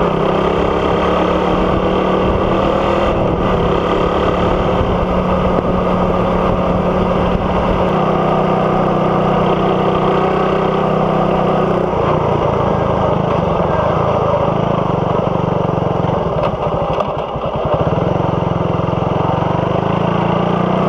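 Suzuki Raider 150's single-cylinder four-stroke engine running through an exhaust with no catalytic converter, a big elbow and a big tip. The note holds fairly steady, with a brief dip in level late on.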